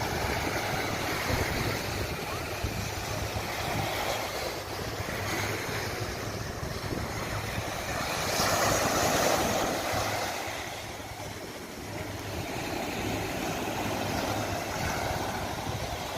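Ocean surf breaking and washing up the beach, with wind noise on the microphone. A bigger wave swells up about eight seconds in and dies away by about twelve seconds.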